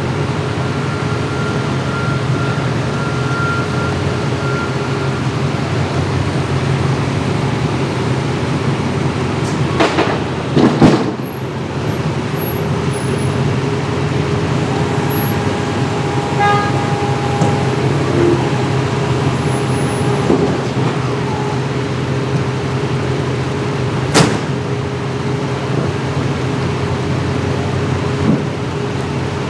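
City street traffic with a steady engine drone throughout; a loud vehicle surges past about ten seconds in, and a single sharp crack sounds a few seconds before the end.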